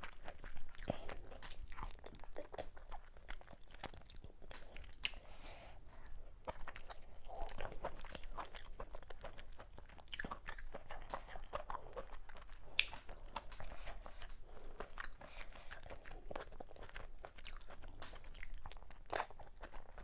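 Close-miked chewing and biting: wet mouth smacks and crunchy bites of someone eating fufu with okra soup and assorted cow meats, as a steady irregular run of short clicks.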